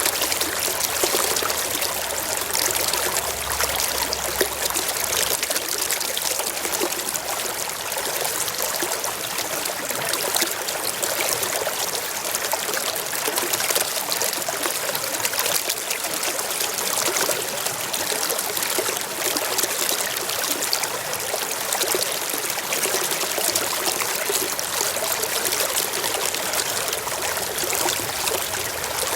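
Small stream flowing over rocks: a steady rush of running water, with its sound lying mostly in the middle and high range.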